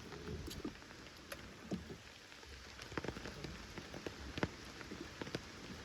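Rain falling steadily, with scattered individual drops ticking at irregular intervals.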